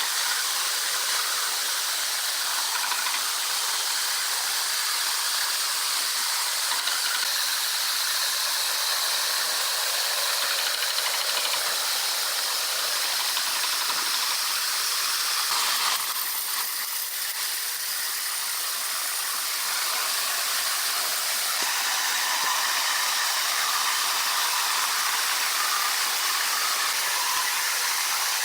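Sawmill machinery running: a steady, hiss-like mechanical noise that changes abruptly about sixteen seconds in, then carries on steadily.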